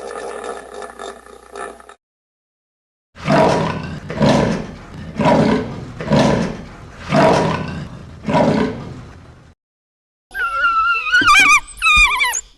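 A big cat roaring in a series of six deep, evenly spaced roars about a second apart. Near the end, after a short gap, comes a high, wavering whimper like a dog's.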